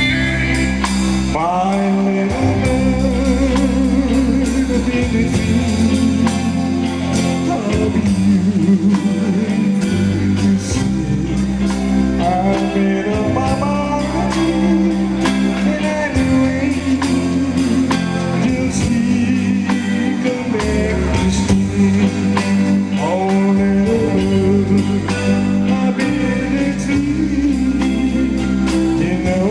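A guitar band playing a song live: plucked guitars carry a melody with sliding, bent notes over a steady bass line and beat.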